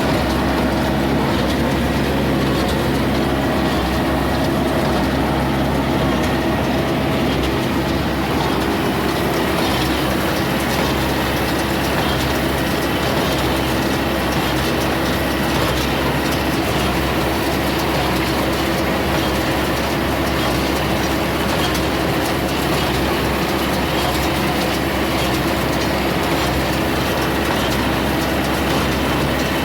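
Compact tractor engine running steadily under load, driving a New Holland Super 69 small square hay baler through its PTO, with the baler's mechanism running alongside in a steady, unbroken mechanical din.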